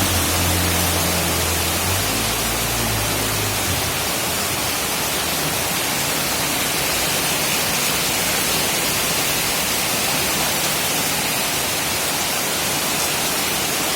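Heavy rain pouring down with rushing floodwater, a steady loud hiss. For the first four seconds or so a low engine hum runs beneath it, then stops.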